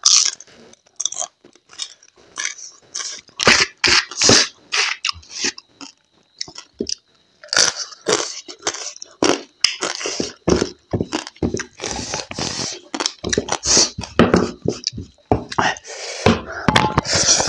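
A person chewing and crunching crab and rice eaten by hand, with many irregular wet crackles and clicks of the mouth. Near the end there is a longer, fuller sound as the wooden bowl is raised to the mouth.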